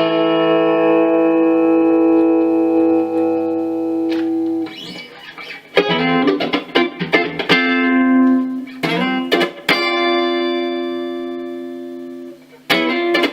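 Fender Stratocaster electric guitar played through an amplifier. A chord rings out for about four and a half seconds, then comes a run of picked notes and strummed chords. A last chord is held and slowly fades, and playing starts again near the end.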